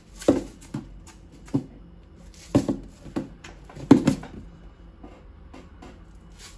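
Food-storage containers knocking and clattering against one another and the shelf as they are set down and shifted in a cramped cupboard, in a string of sharp knocks during the first four seconds, then only faint clicks.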